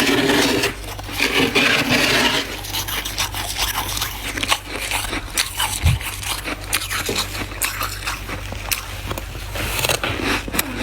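Freezer frost scraped and crunched close to the microphone: a noisy scraping stretch for the first two seconds, then a long run of sharp, crisp crunches.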